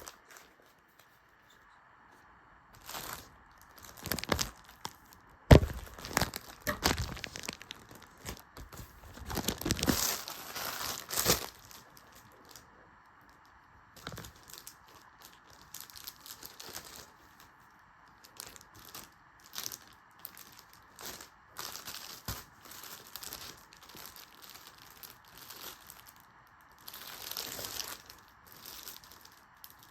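A package being unpacked by hand: paper and packaging torn and crumpled, with the loudest rips and crinkling about five to eleven seconds in, then quieter rustling and crinkling.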